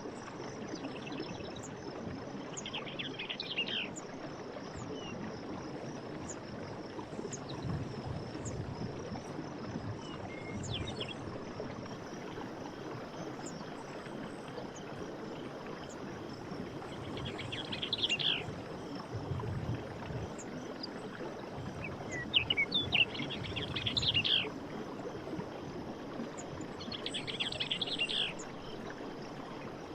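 Night forest ambience: a steady high insect trill, with bursts of chirping calls about four times, and a few low croaking bursts.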